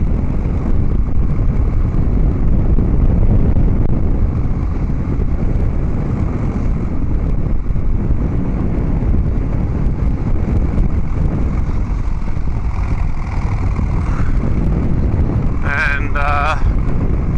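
Harley-Davidson Dyna Street Bob's V-twin engine running through a Vance & Hines Big Radius 2-into-2 exhaust: a steady, loud low rumble from the pipes.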